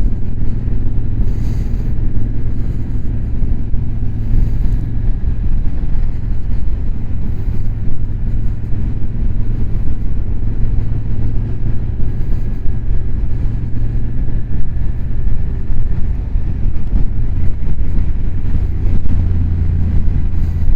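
Motorcycle engine running steadily at cruising speed, heard through a helmet chin-mounted camera with wind rushing over the microphone.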